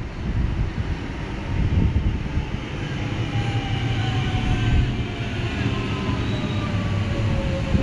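Electric suburban train running with a steady low rumble, its motor whine sliding slowly down in pitch over the last few seconds.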